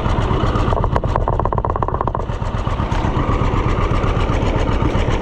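Engine running steadily at idle-like speed, its firing pulses even throughout, with a brief higher buzzing about a second in.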